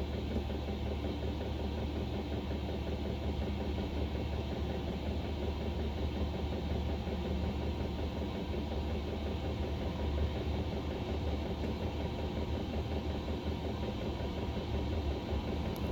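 Chinese diesel air heater running at full heat: a steady low drone from its combustion blower and burner.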